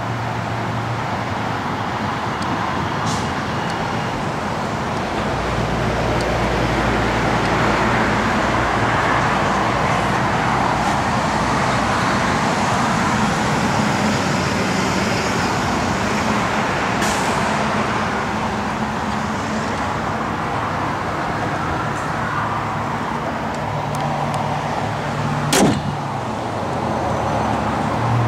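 A motor vehicle's engine running steadily at idle under a wash of steady noise, with one sharp click near the end.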